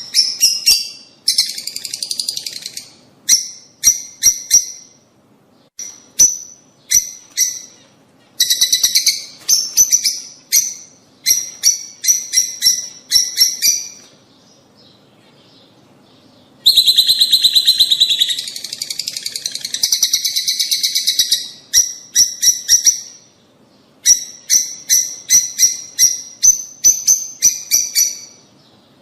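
Lovebirds calling: runs of sharp, high-pitched chirps in quick succession. A brief lull just past the middle is followed by a dense stretch of continuous chattering, then more rapid chirps.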